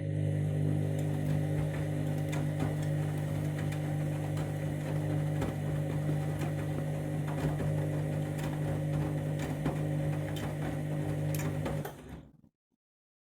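Candy Grand'O Vita washing machine on its main wash, the drum motor humming steadily as it turns the drum, with scattered light clicks and knocks. The motor cuts off about twelve seconds in.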